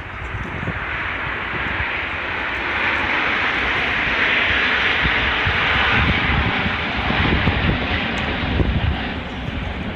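Aircraft flying past at an air show: a loud, steady roar that builds to its peak about halfway through and then eases off.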